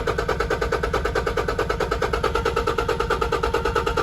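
Toyota Dyna's common-rail diesel engine running steadily at idle with its number 4 injector disconnected, an even, rhythmic pulse. Number 4 is the injector blamed for the leak-down and the crank-no-start.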